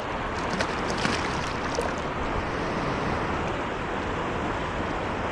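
River water rushing steadily, with a few faint clicks in the first two seconds.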